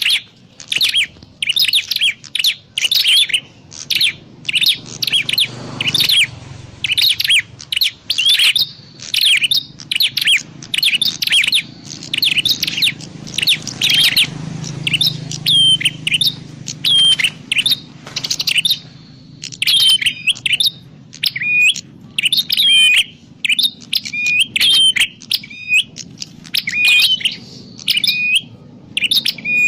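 Prenjak klawu, a prinia, calling: a fast, unbroken run of short, sharp, high chirps, about two to three a second.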